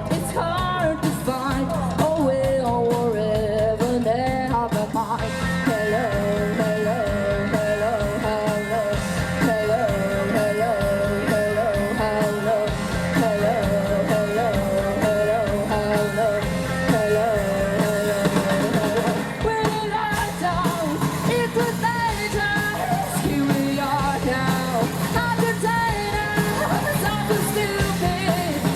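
A rock band playing live. A melody line wavers with vibrato over a full band with a steady beat.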